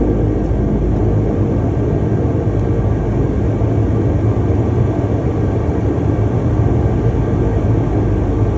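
Cabin noise of a DHC-8-200 turboprop, its Pratt & Whitney PW123 engines and propellers droning steadily with a low hum, heard from a seat beside the propeller.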